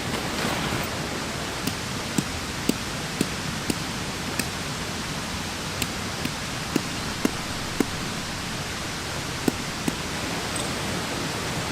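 Steady rain hiss, with about a dozen heavy drops tapping sharply and irregularly close by.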